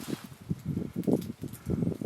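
Irregular soft, low thuds and rustling, several a second, with a faint hiss behind.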